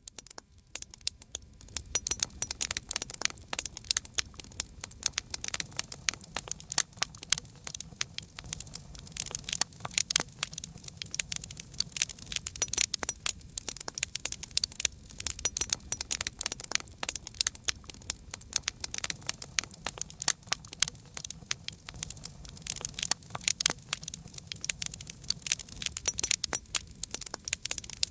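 Wood campfire crackling: a dense, irregular stream of sharp pops and snaps over a low, steady hiss of the flames.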